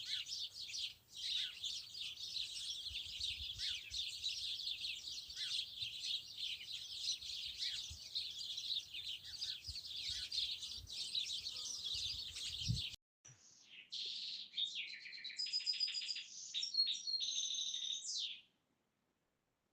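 A dense chorus of small songbirds chirping, many short overlapping calls. About two-thirds of the way through it cuts abruptly to a different stretch of birdsong with clearer, held whistled notes, which stops suddenly near the end.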